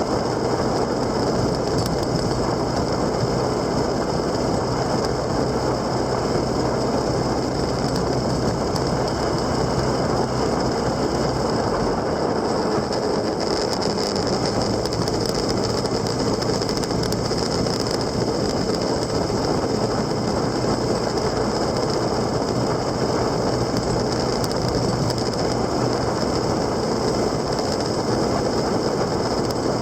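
Steady wind and road noise of a two-wheeler on the move, with a faint steady hum underneath.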